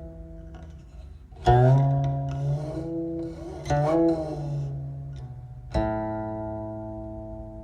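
Slow solo music on a plucked string instrument: single notes and chords plucked and left to ring. One about a second and a half in slides in pitch, another comes near four seconds, and a long ringing chord starts near six seconds.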